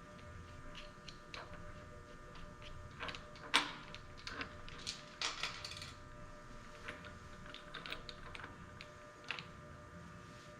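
Irregular clicks, taps and clacks of metal tools and parts being handled, with one sharp clack about three and a half seconds in, over a steady electrical hum.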